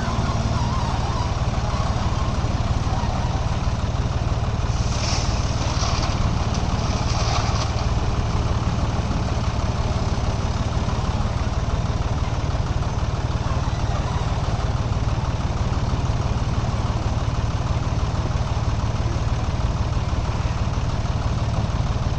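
Heavy diesel engine running steadily at a constant pitch, from the backhoe loader or the tractors being loaded. About five seconds in there is a short burst of high noise lasting a couple of seconds.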